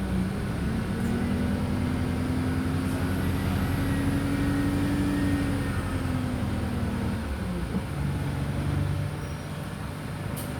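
Wright StreetLite DF single-deck bus's diesel engine heard from on board, the note rising steadily under acceleration for several seconds. About seven seconds in it eases off and drops to a lower, steady note.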